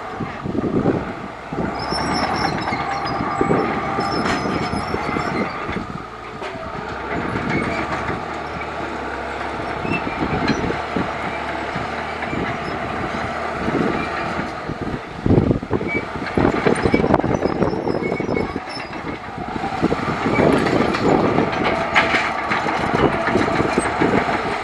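Crawler bulldozer working: diesel engine running steadily under load while its steel tracks clank, clatter and squeak.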